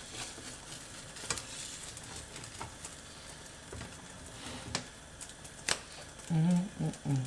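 Egg frying in an oiled pan with a steady soft sizzle, and a few sharp clicks of a utensil against the pan.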